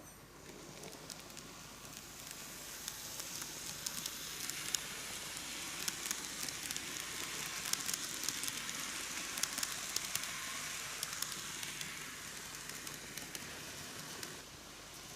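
KATO N-gauge C11 steam locomotive model and its passenger cars running on the track: a steady rolling hiss with scattered sharp clicks. It grows louder over the first few seconds and drops off just before the end.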